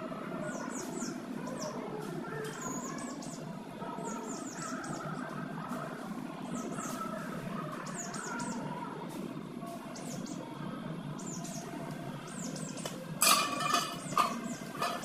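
Many small birds chirping: quick, high, falling chirps in clusters over a busy lower chatter. About two seconds before the end comes a louder, sharper burst of sound.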